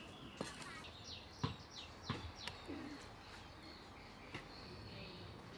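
A run of short, falling bird chirps in quick succession from about a second in, over faint outdoor background noise, with a few sharp clicks, the loudest about one and a half seconds in.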